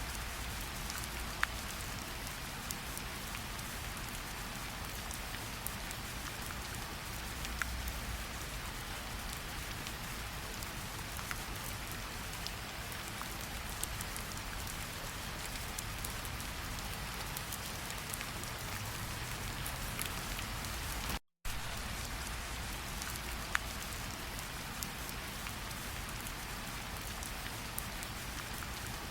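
Steady rain falling: an even hiss with scattered sharp drop ticks. The sound cuts out completely for a split second about two-thirds of the way through.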